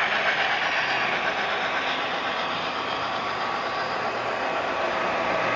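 Model train running on a layout's track, a steady mechanical running noise.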